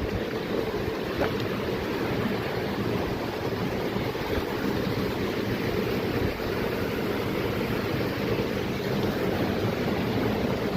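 Steady rush of flowing water, with wind buffeting the microphone.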